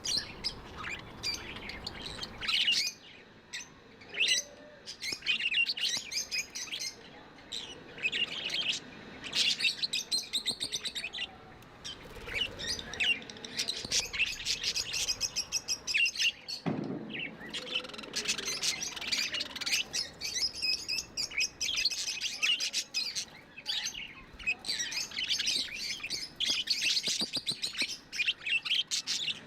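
Budgerigars chirping and chattering continuously in quick, high warbling bursts.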